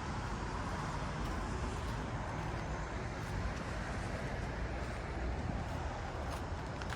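Steady rumble of road traffic, with no single distinct event standing out.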